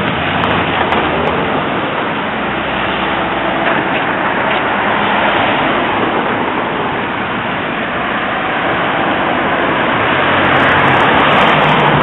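Cars going by on a city street: a steady rush of engine and tyre noise, a little louder near the end.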